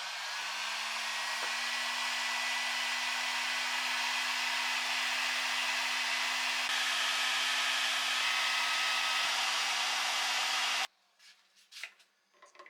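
High-speed handheld power tool cutting notches into a stuck metal bushing on an oil-pump gear axle: a steady whine with a hiss, spinning up at the start and stopping abruptly about eleven seconds in.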